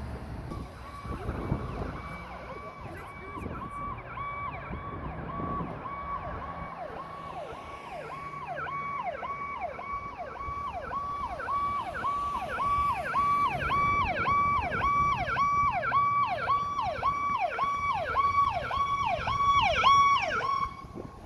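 Fire apparatus electronic siren in a fast repeating wail, each cycle holding a high note and then dropping sharply, growing louder as it approaches and cutting off suddenly near the end.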